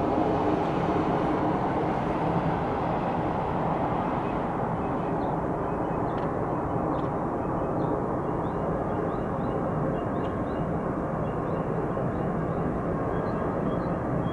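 Jet airliner engines heard at a distance, a steady rumbling noise whose hiss fades a little about four seconds in.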